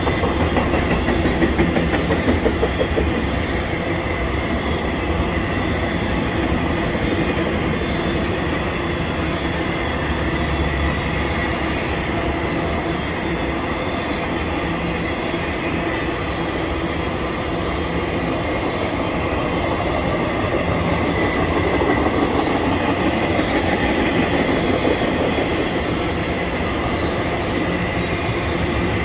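Intermodal freight cars of a passing train rolling by steadily, their wheels rumbling and clattering on the rails, with a faint steady high ring over the top.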